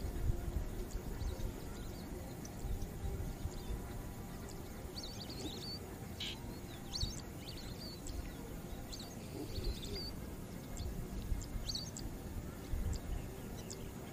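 Small birds chirping in short, scattered high calls, more of them from about five seconds in, over a steady low rumble.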